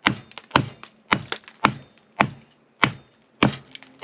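Japanese wood hatchet splitting kindling: a steady run of sharp chops on wood, about two a second, with lighter taps between some strokes.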